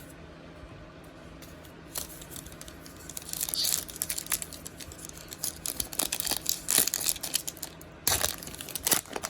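Trading-card pack wrapper being torn open and crinkled by hand, a crackly rustle with many sharp crinkles that starts about two seconds in.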